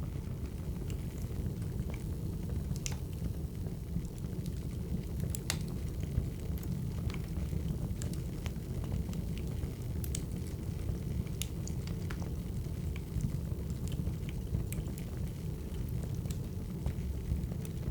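Crackling wood fire: a steady low rumble of flames with irregular sharp pops and snaps of burning logs.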